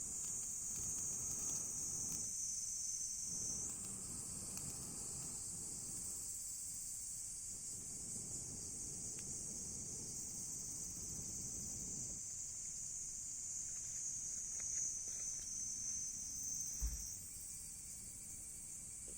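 Insects trilling, a steady high-pitched chorus, over a wood bonfire burning with a few sharp crackles. There is one low thump near the end.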